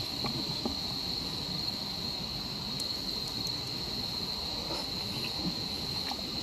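Crickets chirring at night in one steady, unbroken high tone, over a low rushing background with a few faint clicks.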